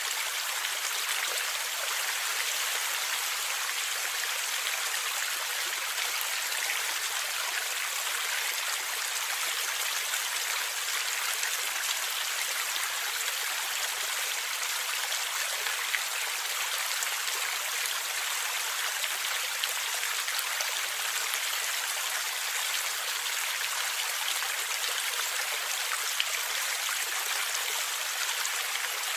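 Stream water gurgling and flowing steadily: an even rushing sound, bright and without low rumble, with a couple of brief louder ticks about halfway and near the end.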